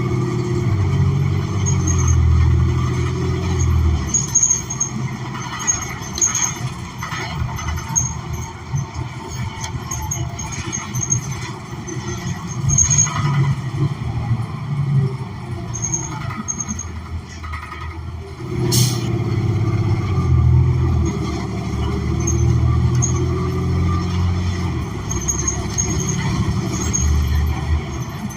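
Cummins Westport ISL G natural-gas engine of a New Flyer XN40 transit bus, heard from inside the cabin, running through an Allison automatic as the bus pulls away and slows several times. About two-thirds of the way through there is a short sharp hiss of air from the brake system, and the engine then builds again.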